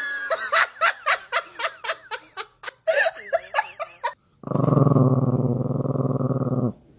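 A cat giving a rapid run of short, rising-and-falling meows, about four or five a second. Then a chihuahua growls steadily for about two seconds and stops abruptly.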